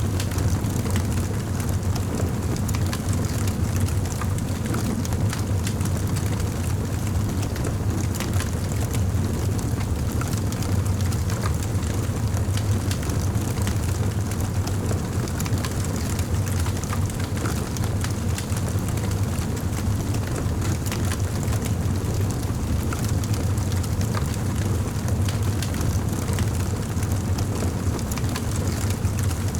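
Fireplace fire burning steadily: a constant low rumble of flames with frequent small crackles and pops scattered throughout.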